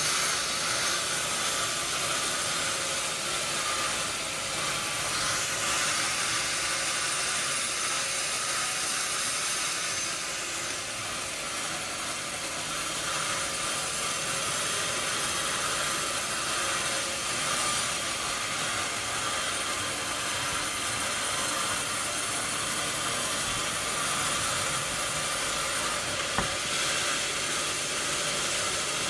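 Sawmill saw running through a log, a steady high hiss, with one sharp click near the end.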